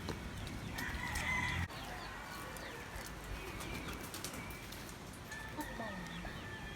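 Birds calling, chickens clucking among them, with short calls and a held note about a second in. A low hum underneath cuts off suddenly partway through.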